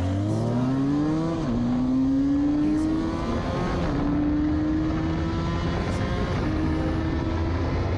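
Benelli 302R's 300 cc twin-cylinder engine accelerating hard through the gears: its pitch climbs, drops at an upshift about a second and a half in, again near four seconds and six and a half seconds, and climbs more slowly in each higher gear. A steady rushing noise runs underneath.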